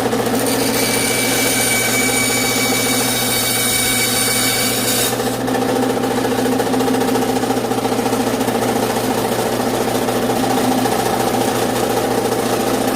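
Power saw motor running steadily, with a high whine for the first five seconds while the blade cuts through the brittle tree branch; the whine stops sharply and the saw keeps running.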